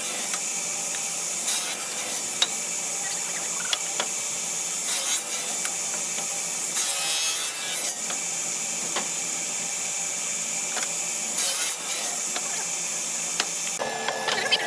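A hand tool working wood in irregular rasping strokes over a steady high hiss, with a few light clicks between the strokes.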